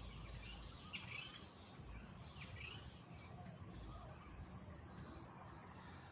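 Birds chirping faintly in a village morning ambience: two short, downward-sweeping chirps, one about a second in and another a little later, over a steady background hiss.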